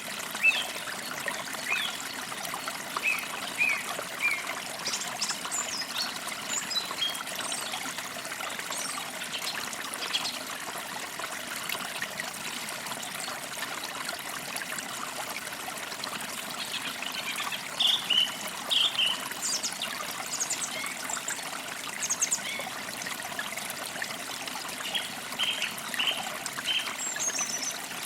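Creek water trickling and babbling steadily, with birds chirping in short calls over it, in several clusters through the stretch.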